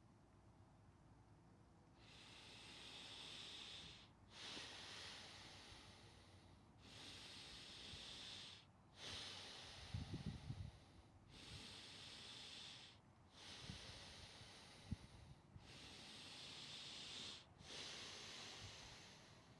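Slow, deep rhythmic breathing of Wim Hof method breathwork: about four long airy breaths through the mouth, each cycle about four seconds, with a few faint low thumps in the middle.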